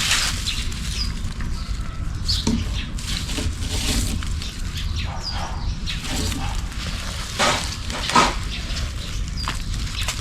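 Irregular knocks, taps and rustles of handwork, the loudest two a little before the end, over a steady low rumble, with a bird's short falling chirp repeating every few seconds.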